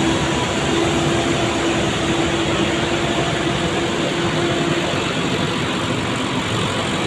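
Heavy-haul truck engines running steadily while hauling a transformer load, with a steady hum that fades out about five seconds in.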